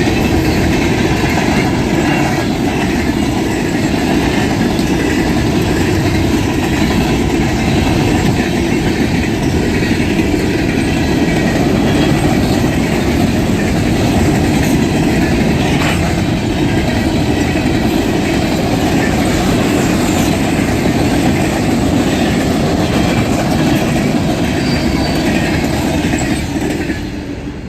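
Norfolk Southern freight train passing at speed: a steady rumble of its cars, with wheels clattering over the rail joints. The sound drops away quickly near the end.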